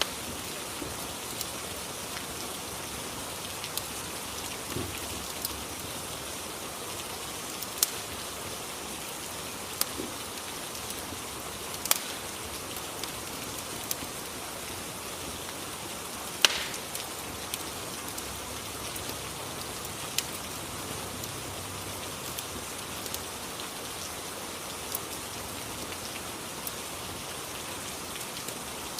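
Rain and fireplace ambience: steady rain hiss with scattered sharp pops and crackles from a wood fire, the loudest pop about sixteen seconds in.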